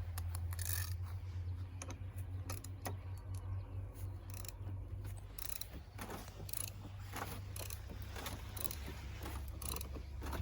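Pickup truck jack being worked with a handle extension to lift the sunken corner of a wooden building: irregular metallic clicks and clanks from the jack mechanism, over a steady low hum.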